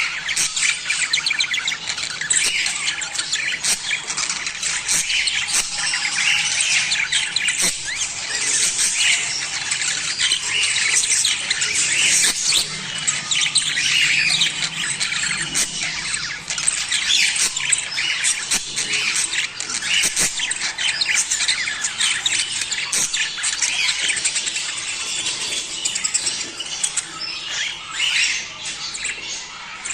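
A flock of budgerigars chattering and warbling without a break, a dense tangle of quick squeaks, chirps and clicks: the mating chatter of budgies.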